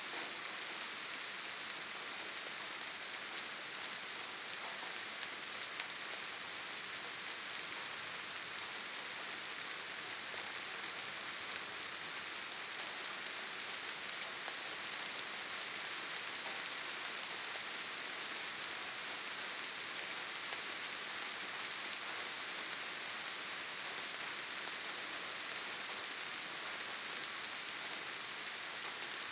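Steady rainfall, an even hiss of many drops with no breaks or single loud events.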